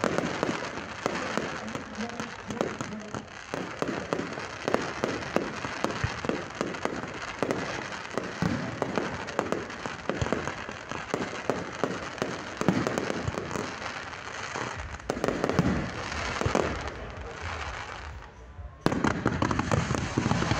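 Fireworks display: a dense, continuous run of bangs and crackling bursts, cutting off abruptly near the end.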